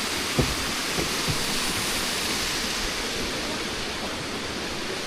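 Steady rushing noise, either wind or running water, even throughout, with a couple of faint knocks in the first second or so.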